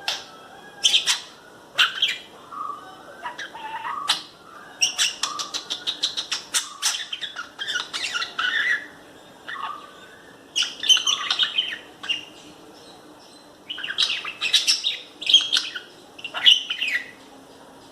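Lovebird chattering in bouts of sharp chirps and quick strings of clicks, with short pauses between bouts.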